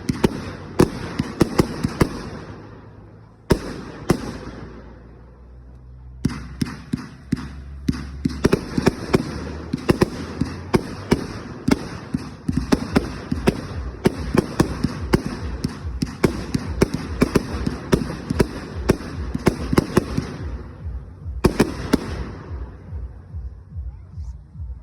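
Fireworks going off in quick succession: a dense run of sharp bangs and crackles. There is a lull a few seconds in before the bangs pick up again, and a brief pause near the end.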